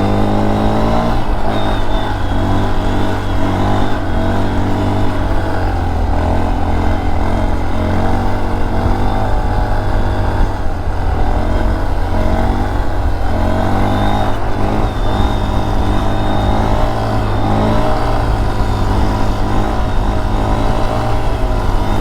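Mini motorcycle engine running under way, its revs repeatedly climbing and dropping as the rider accelerates and shifts, over a steady heavy wind rumble on the microphone.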